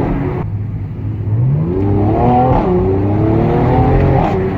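Mercedes-AMG C43's Stage 1-tuned twin-turbo V6 accelerating hard. The revs climb from about a second in, drop once at a gear change midway, then climb again.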